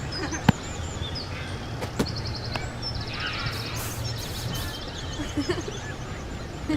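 Birds chirping, with short rising and falling calls and rapid high trills, over a steady outdoor background hiss. Two sharp clicks come about half a second and two seconds in.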